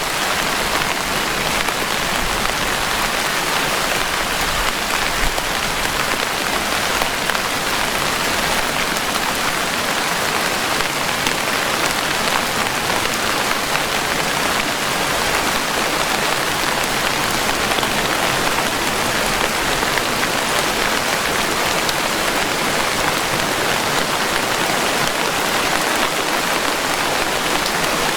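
Steady rain falling, a dense, even hiss of drops that holds constant throughout.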